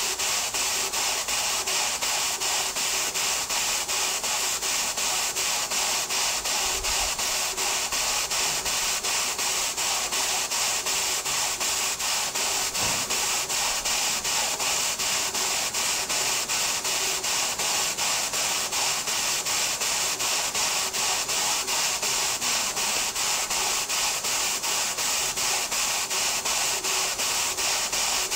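Stuart model steam beam engine running steadily under steam, its exhaust chuffing in a rapid, even beat over a steady hiss.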